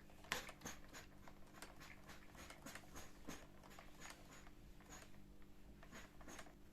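A run of light clicks and taps, about two a second, some with a brief high ring, the sharpest about a third of a second in, over a faint steady hum.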